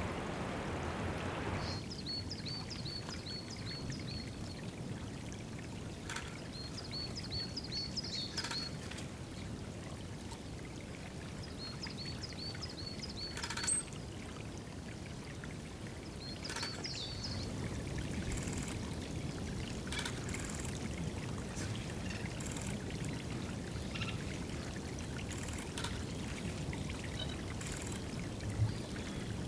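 Water trickling steadily at a woodland bird bath or watering spot. A small bird calls a quick series of about seven high, even notes, four times in the first seventeen seconds, over scattered soft clicks.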